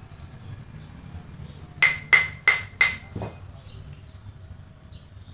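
Hammer striking metal: four quick blows, about three a second, each with a short metallic ring, followed by a softer knock.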